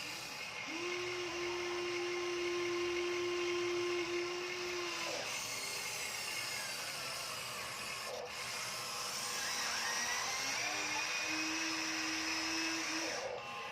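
Small electric motors and gearing of a Huina RC dump truck whining, in two spells: a steady whine for about four seconds, then, after a rising whine, a second steady one near the end.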